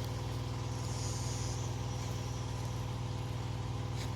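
An engine idling steadily: a low, even, fast-pulsing hum with no change in speed.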